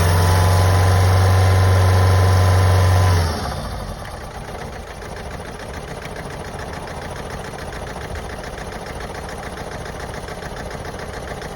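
Vauxhall Astra J engine held at steady raised revs, then let go about three seconds in and dropping back to an uneven idle. The rough idle is the fault the owner reports, along with a loss of power.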